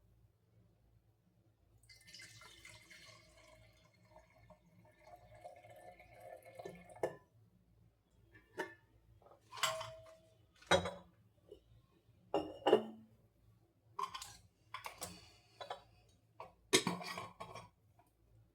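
Kitchen sounds: water running or pouring for a few seconds, then a string of separate knocks and clinks of dishes and utensils.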